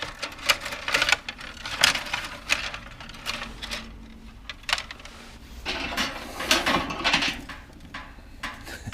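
Coat hangers clattering and clicking against each other as they are handled and sorted, a busy run of sharp knocks and rattles.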